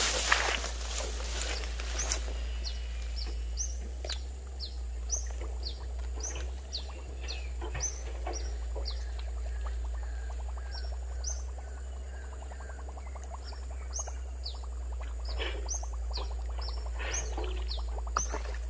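A bird calling with short, high chirps that sweep downward, repeated about twice a second, over a steady low rumble. A brief rustle is heard at the start.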